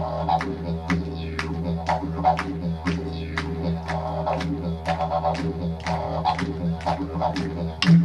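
Didgeridoo played continuously: a steady low drone, punctuated by sharp rhythmic accents about twice a second and recurring swells of higher overtones.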